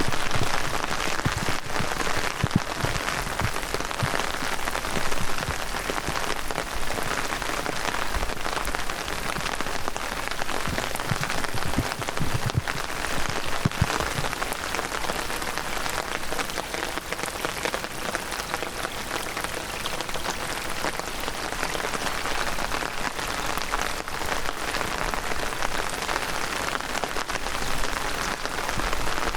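Heavy rain falling steadily, a dense even hiss full of sharp individual drop hits. A few dull low thuds come through in the first half.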